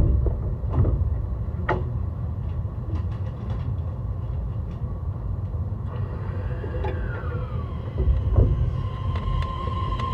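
Inside an E131-600 series electric train running on the line: a steady low rumble of wheels and running gear, with a few sharp clacks from the rails. Near the end a steady high tone from the Hitachi hybrid SiC inverter and traction motors sets in.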